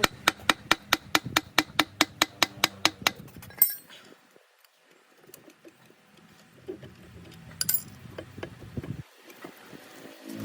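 A fast, even run of sharp metallic clicks, about six a second, stopping a little over three seconds in. A single click follows later.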